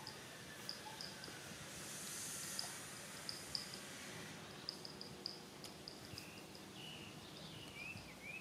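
Faint outdoor ambience with small birds chirping: short high chirps in quick groups of two to four, and a few short calls that slide in pitch, over a soft hiss that swells briefly a couple of seconds in.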